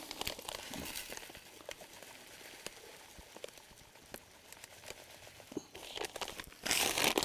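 Plastic bait packet crinkling and rustling as it is handled and powdered fishing bait is poured out, with scattered light clicks. The rustling gets louder near the end.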